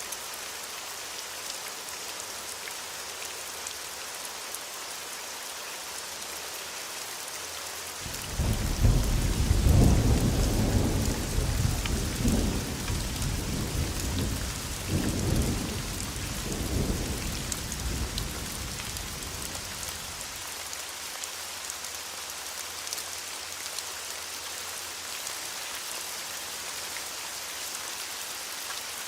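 Steady rain falling, with a roll of thunder about a quarter of the way in that cracks, rumbles on in several surges for around ten seconds and dies away, leaving only the rain.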